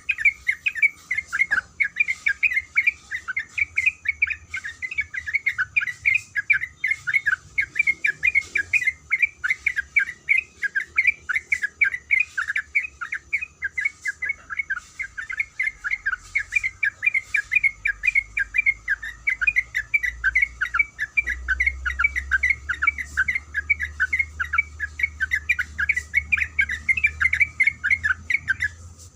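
Sooty-headed bulbul singing a long, rapid run of chattering notes with no let-up, breaking off briefly near the end and then starting again.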